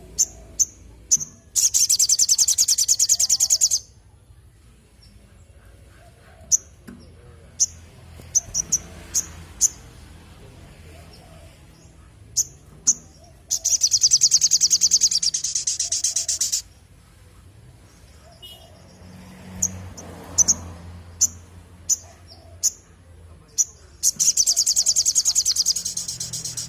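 Sogon (sogok ontong sunbird) singing: scattered short, high chirps broken by three long, very rapid high trills of two to three seconds each.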